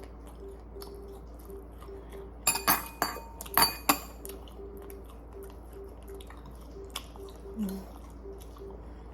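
Eating utensils clinking against dishes at a meal of grilled pork belly: a quick run of sharp, ringing clinks a couple of seconds in, then a single softer knock later.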